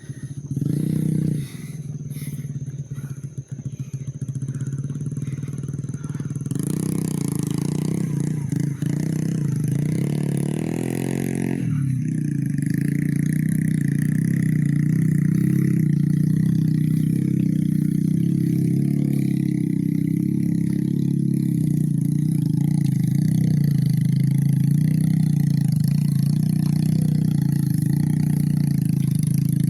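A motor vehicle's engine working under load, revving up with rising pitch about ten seconds in and then running as a loud, steady drone.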